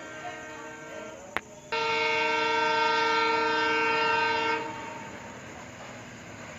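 Locomotive horn of the Yashwantpur Express: a fainter horn chord at first, a sharp click, then one loud, steady blast of about three seconds starting nearly two seconds in. After the horn stops, the steady noise of the running train remains.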